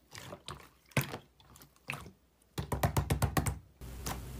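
Slime being pressed and kneaded, giving scattered sticky clicks and pops, then a quick run of clicks about two and a half seconds in that lasts about a second.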